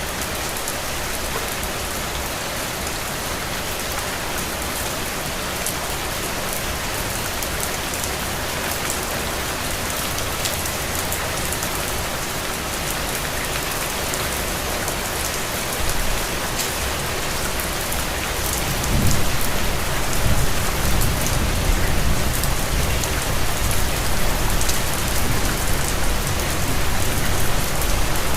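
Steady rain falling on a surface, a dense even hiss with fine drop patter. About two-thirds of the way in, a low rumble joins under the rain and stays to the end.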